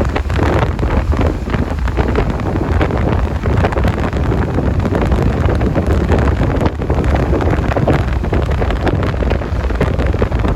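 Heavy wind buffeting the microphone on a moving motorcycle, with the motorcycle and road traffic running underneath as a loud, uneven rumble.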